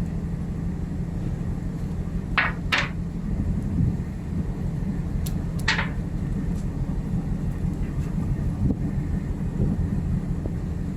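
Steady low hum of a ship's machinery, with a few brief high chirps about two and a half and six seconds in.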